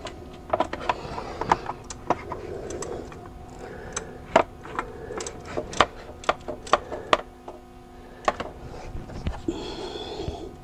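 Irregular metallic clicks and clinks of a socket ratchet on an extension, working the starter's mounting bolts, over a steady low hum.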